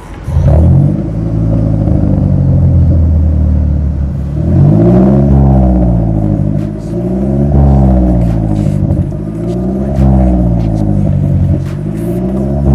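Toyota RAV4 hybrid's 2.5-litre 2AR-FXE four-cylinder engine through an MS-R valved cat-back exhaust, starting about half a second in and then revved up and let back down several times, about every two and a half seconds.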